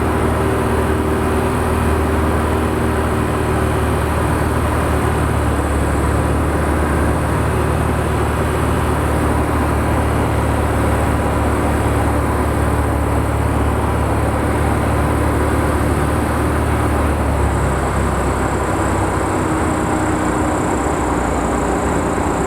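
Aircraft engine and propeller running steadily during a landing in gusty crosswind. The low drone changes in character about three-quarters of the way through.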